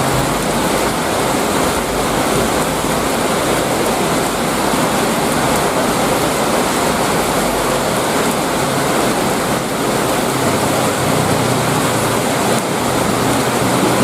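Heavy rain pouring steadily, a dense even hiss of water. A low hum joins in from about ten seconds in.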